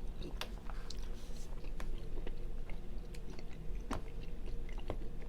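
Close-up chewing and mouth sounds of someone eating white chicken chili soup, with irregular small wet clicks. A steady low hum runs underneath.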